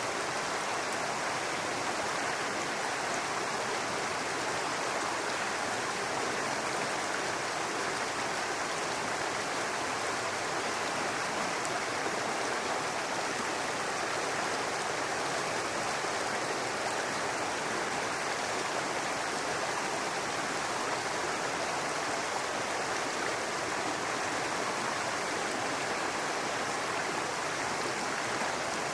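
Brook water running and babbling over rocks, a steady even rush without breaks.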